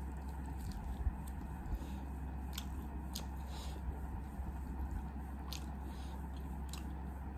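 Biting into and chewing a chicken leg piece close to the microphone, with scattered sharp mouth clicks.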